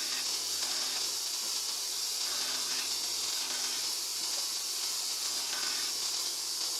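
Steady hiss of a sandblaster's compressed-air nozzle blasting abrasive, with no break in the flow.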